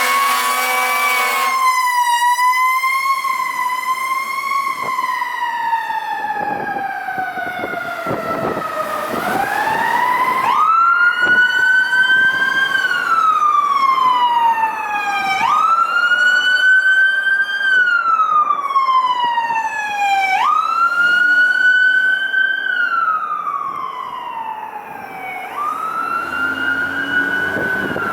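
Fire apparatus Q siren wailing, winding up quickly then falling slowly, about every five seconds, with a second siren overlapping briefly. An air horn blasts at the start and again near the end.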